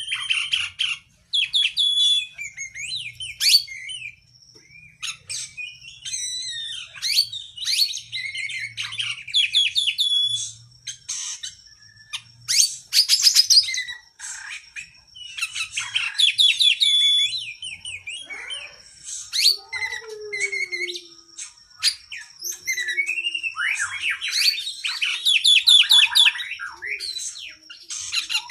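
Oriental magpie-robin (kacer) singing a long, varied song of rapid whistles, chirps and trills in quick bursts. A thin steady high tone is held underneath from about eight seconds in.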